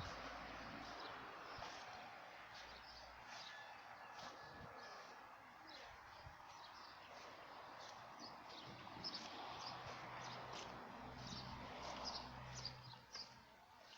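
Birds chirping: short high calls repeating over a faint, steady outdoor background hiss, the chirps coming thicker in the second half.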